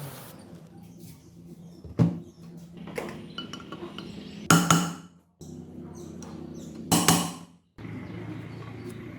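Metal parts or tools clinking: three sharp metallic knocks with a brief ring, roughly two and a half seconds apart, over a steady low hum.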